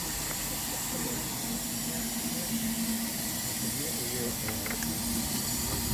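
Steady hiss of escaping steam from a steam locomotive, with a low steady hum joining in about a second and a half in.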